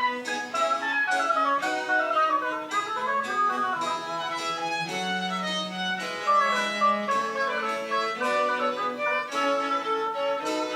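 French Baroque chamber music played by a small ensemble of strings and winds, with violin to the fore: quick moving melodic lines over bass notes, one low note held about halfway through.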